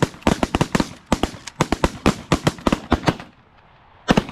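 Volley of shotgun fire from several hunters shooting at geese: rapid, overlapping shots for about three seconds, then a short pause and two more shots near the end.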